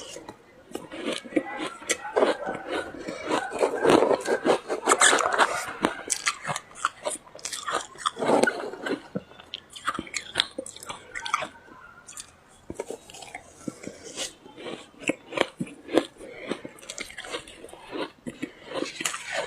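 Close-up crunching of ice being bitten and chewed: a steady run of sharp irregular cracks, with heavier chewing bouts a few seconds in and again about halfway through.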